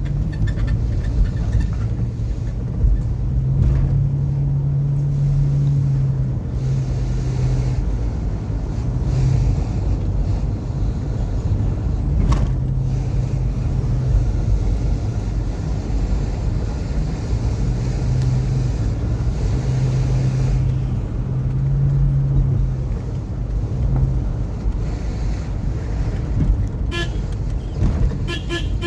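A car being driven on a road: steady engine and road rumble, with a low hum that comes and goes.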